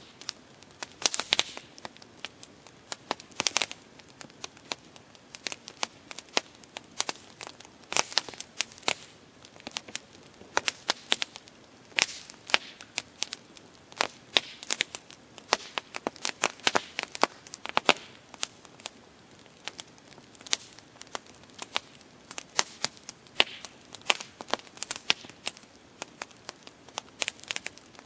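Campfire burning: wood crackling and popping in dense, irregular snaps over a faint low hiss.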